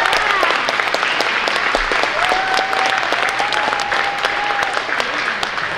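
An audience applauding, many hands clapping at once, with a few voices calling out over it.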